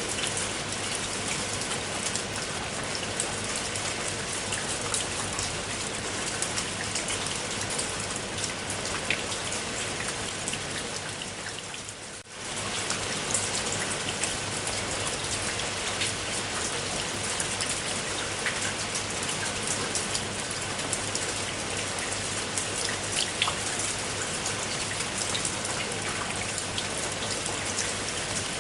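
Steady rain falling, a continuous hiss with many individual drops ticking. The sound briefly fades and comes straight back about twelve seconds in.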